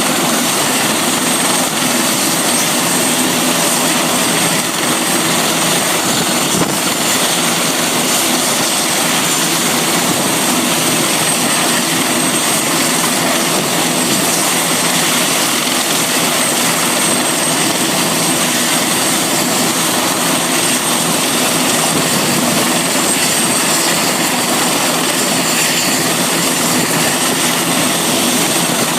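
Helicopter running steadily: a loud, even noise with a thin high whine and no change in pitch or level.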